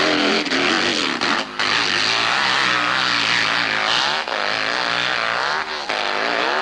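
Hillclimb motorcycle engine running hard at high revs, its pitch rising and falling as the throttle is worked on the climb.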